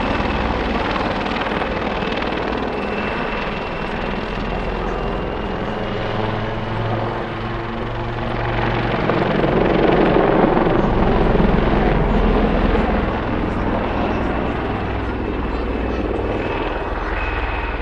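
Two AgustaWestland AW159 Wildcat HMA.2 helicopters in a display pass, their rotors and turbines making a steady loud noise that swells about halfway through as they come closer, with a thin steady whine above it.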